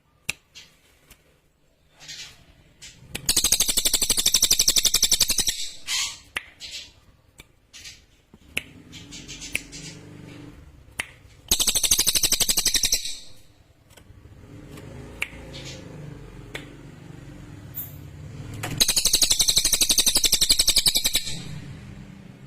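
Cililin songbird singing three long bursts of rapid, high-pitched trilled notes, each about two seconds long. Between the bursts there are scattered clicks and a low hum.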